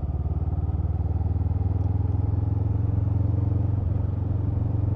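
Honda CMX500 Rebel's parallel-twin engine running at a steady cruise, with road and wind noise; a higher line in the engine note drops away about four seconds in.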